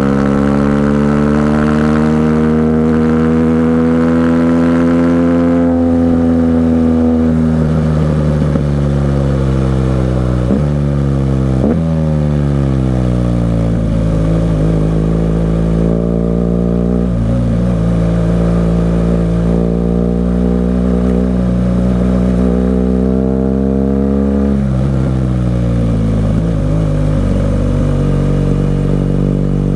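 BMW R 1200 GS Adventure boxer-twin engine through an aftermarket SC-Project exhaust, ridden through a run of bends: the engine note rises under throttle and falls off again several times, with short breaks in the note as gears change about a third of the way in and again about four-fifths of the way through.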